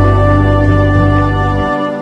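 Background music: slow, sustained keyboard chords over a deep held bass note, which drops away briefly near the end.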